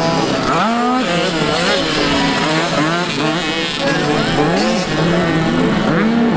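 Several 50cc dirt bike engines racing together, revving up and dropping back over and over as the riders work through the gears.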